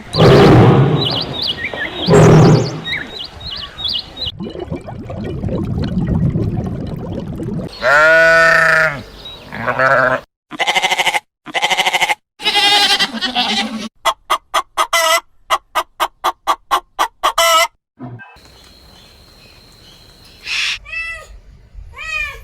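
A string of different animal calls, one clip after another, including bleating, a fast run of repeated short calls, and near the end a cat meowing.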